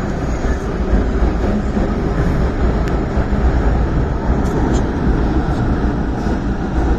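MTR M-Train electric multiple unit running: a steady low rumble of the train in motion, with no change in pace.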